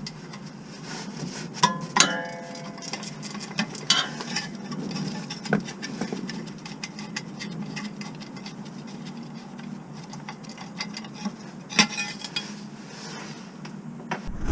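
Metal tools clinking and knocking against metal car parts, a handful of separate clinks over a low steady hum; the loudest, about two seconds in, rings briefly.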